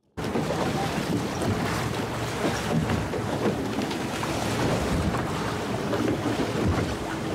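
Wind buffeting the microphone on a moving boat at sea, over the rush of water and the boat's running noise. It starts suddenly just after the beginning and stays steady.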